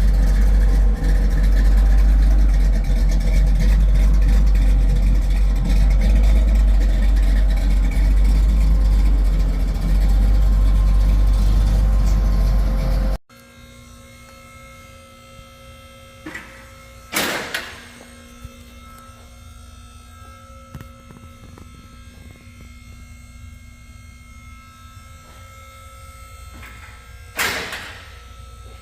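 1968 Pontiac Firebird's engine running with a heavy low rumble, cutting off abruptly about thirteen seconds in. A steady, quieter hum follows, broken twice by short bursts of hiss-like noise.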